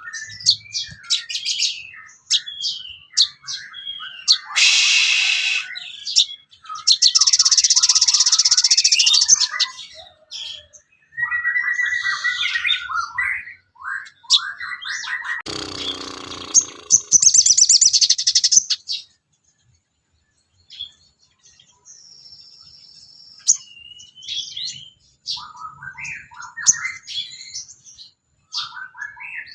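Sogon bird singing a varied run of chirps and trills, mixed with two harsher, buzzing passages, with a brief pause about two-thirds of the way through.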